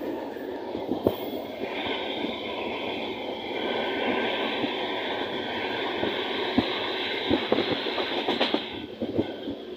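Moving train heard through an open carriage window: the steady rumble and rattle of the wheels on the track with irregular sharp clacks, and a steady high tone above it from about two seconds in.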